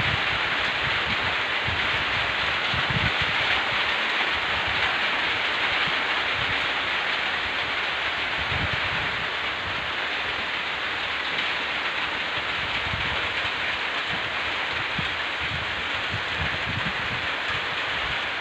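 Steady heavy rain falling on a rice paddy: an even, dense hiss, with brief low rumbles now and then.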